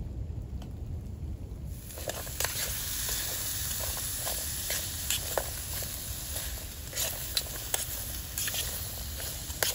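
Rain falling, with scattered drops tapping sharply close by at irregular moments, over a steady low rumble. The hiss of the rain gets louder suddenly about two seconds in.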